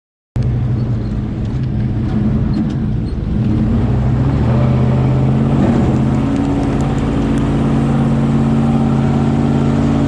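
Dodge Ram 1500 pickup engine running under load as the mud truck drives through a mud hole; the sound starts suddenly just after the beginning, the revs rise about three to four seconds in and then hold steady.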